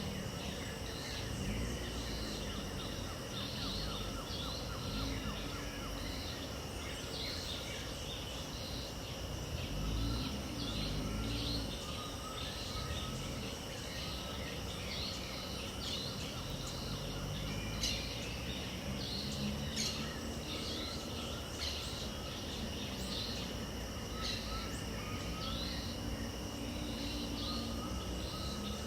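Dawn chorus in wild wetland: birds chirping over and over, about once a second, with occasional lower warbled phrases, above a steady high insect drone. A low rumble runs underneath, and two sharp ticks sound a little past the middle.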